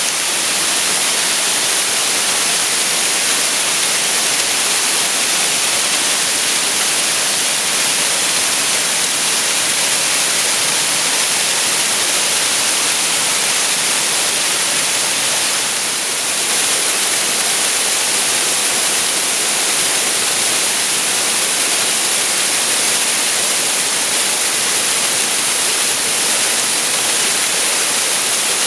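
Waterfall pouring steadily, a continuous rushing hiss of falling water that is strongest in its high, bright part, with a brief dip in level a little past halfway.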